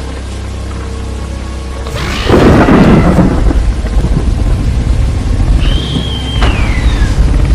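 Thunder sound effect: a low rumble, then a loud thunderclap about two seconds in that rolls on for over a second. Near the end a high cry glides down in pitch.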